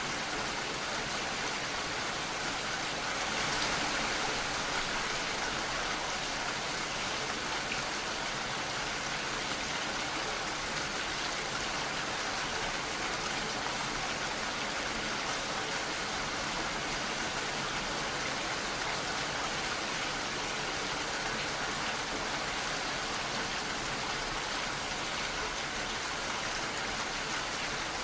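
Steady rain falling, an even hiss with no breaks, swelling slightly about three to four seconds in.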